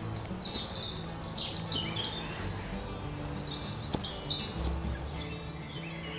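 Songbirds chirping in short, quick falling phrases over background music of held low notes, with one faint click about four seconds in.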